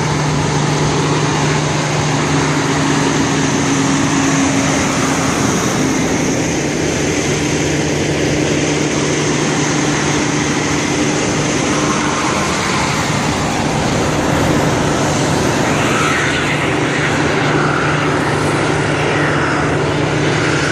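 Steady hum of a vehicle engine running, with a constant hiss over it and no change in pace.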